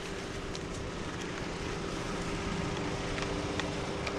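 A vehicle engine running steadily, with a steady hum and a few faint light clicks.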